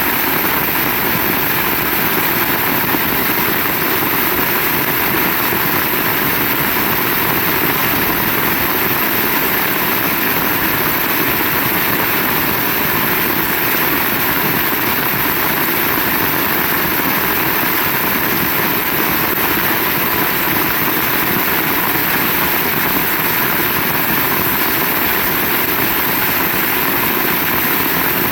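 Heavy rain falling steadily, a constant even hiss and patter with no let-up.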